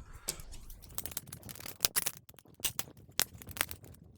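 Irregular small clicks and light rustling of tools and parts being handled on a workbench, with a few sharper clicks about two to four seconds in.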